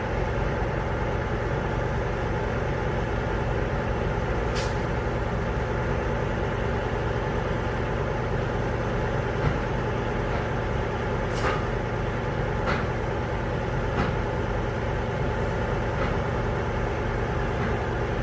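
Heavy vehicle engine idling steadily, with a few sharp knocks scattered through and two short high hissing bursts.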